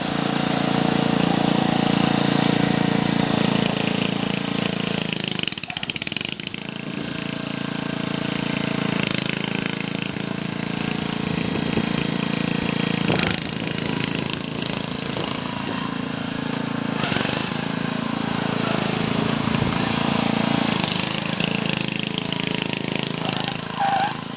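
Small tractor engine running with a rattly note, dipping briefly about six seconds in.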